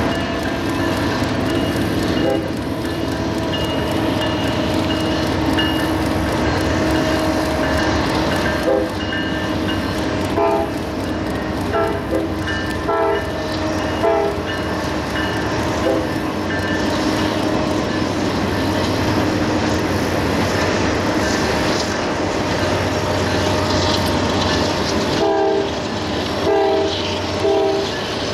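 Norfolk Southern freight train of double-stack container cars, hoppers and tank cars rolling past behind its diesel locomotives. A steady rumble is broken by wheel clicks over rail joints. A steady high tone runs through the first two-thirds, and short repeated tones come in bursts near the middle and again near the end.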